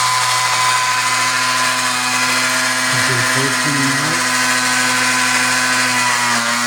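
Electric motors of a Lionel model train layout, with its coal loader working, running with a steady whine over a low hum.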